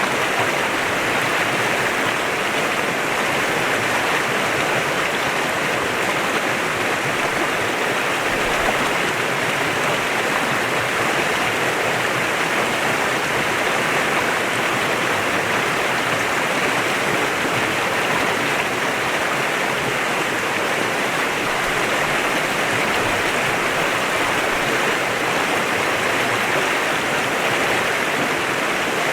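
Clear mountain stream flowing over rocks, a steady rushing of water.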